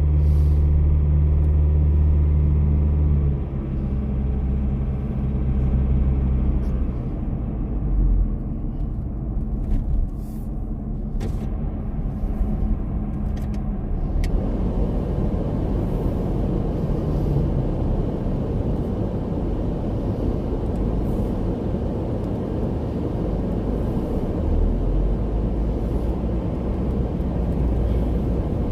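Car engine and road noise heard inside the cabin while driving: a steady low engine hum for the first few seconds, then tyre and road rumble growing fuller about halfway through as the car picks up speed.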